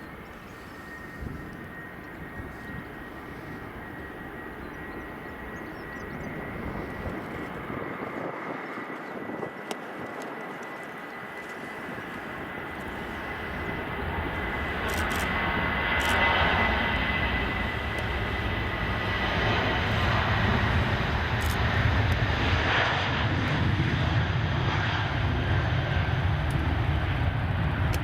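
Jet aircraft engines: a steady high whine over a broad roar that grows steadily louder and stays loud with a deep rumble through the last ten seconds or so.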